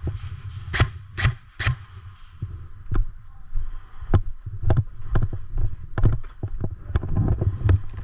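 Footsteps of a player moving through the field, with irregular low thuds and scuffs, plus three sharp snaps about half a second apart near the start.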